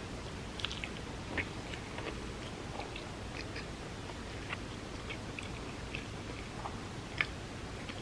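Chewing and biting into a vegan spam musubi of rice, nori and vegan spam: soft, scattered mouth clicks over a steady hiss, with a sharper click about seven seconds in.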